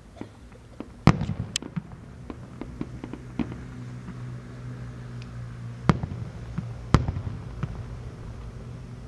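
Fireworks going off: sharp loud bangs about a second in and again near six and seven seconds, with many smaller pops between them over a low rumble.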